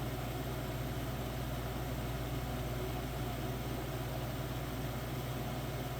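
Capehart 40-pint dehumidifier running steadily with a low, even hum and air noise from its fan, the fan motor freshly oiled.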